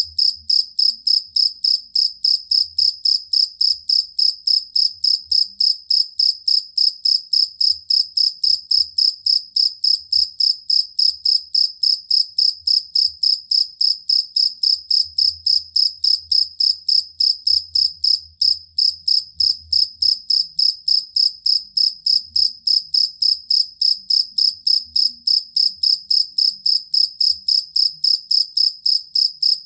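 Two-spotted field cricket (jangkrik kalung) chirping: a high-pitched chirp repeated evenly, about three times a second, with one brief skip a little past the middle.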